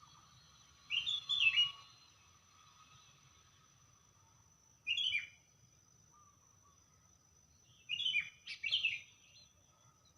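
A songbird sings three short phrases of quick chirping notes: one about a second in, one about five seconds in, and a longer one around eight to nine seconds. A faint steady high-pitched tone runs underneath.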